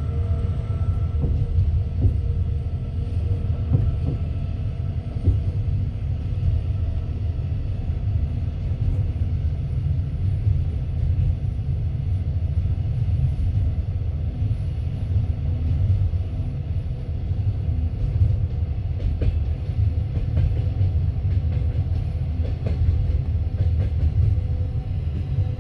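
Passenger train coach rolling along the track, heard from inside the carriage: a steady low rumble of wheels on rails, with a few faint clicks, most of them in the second half.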